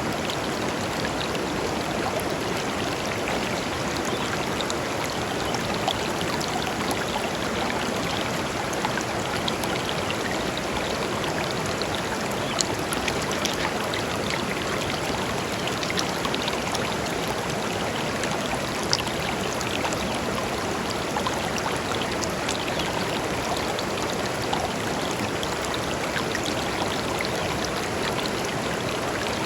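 Shallow river flowing over stones: a steady rushing with small splashes and trickles throughout.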